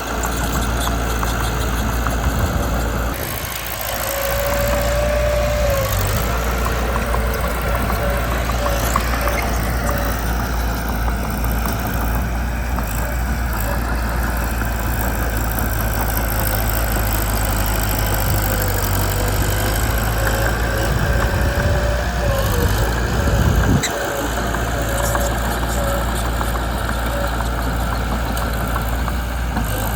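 Mitsubishi BD2 bulldozer's diesel engine running steadily under work. A thin, high squeal comes and goes a few seconds in and again past the middle, and the engine dips briefly twice.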